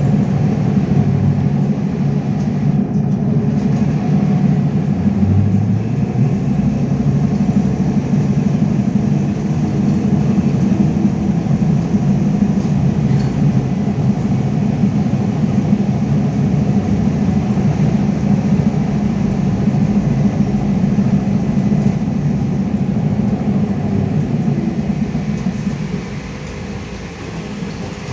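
Cabin noise of a LiAZ-5280 trolleybus on the move: a steady running and road noise, heard from inside. It eases off a little about two seconds before the end.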